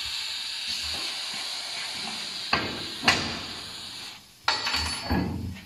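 Steady hiss of air that cuts off about four seconds in, with four sharp knocks like hammer blows, in two pairs.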